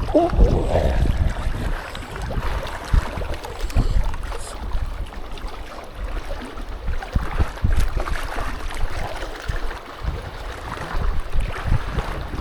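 Strong gusty wind buffeting the microphone, a low uneven rumble that rises and falls with the gusts.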